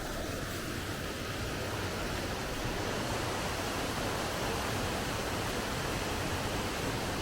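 Hiranyakeshi river water flowing, a steady even rushing.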